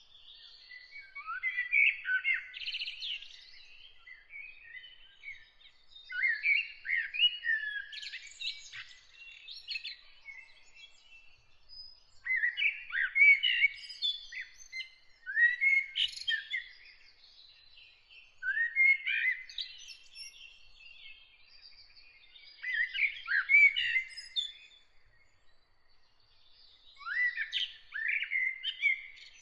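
A songbird singing in separate phrases of varied chirping and warbling notes, about six phrases with short pauses between them.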